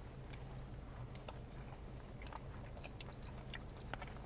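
Quiet chewing of a mouthful of soft macaroni and cheese: scattered small wet mouth clicks, over a low steady hum.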